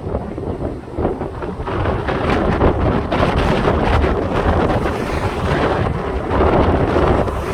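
Strong, gusty storm wind buffeting the microphone, a continuous low rumbling roar that swells and eases.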